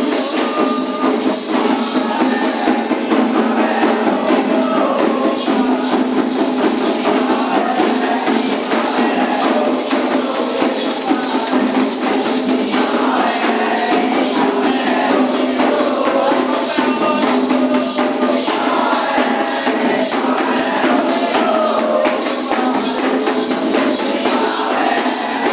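Candomblé ritual music: voices singing a chant over steadily rattling shakers and hand percussion in a fast, even rhythm.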